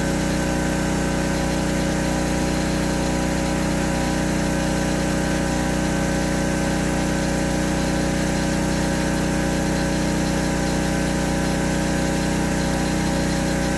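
Pressure washer engine running steadily under load while its primed pump delivers water during a flow test.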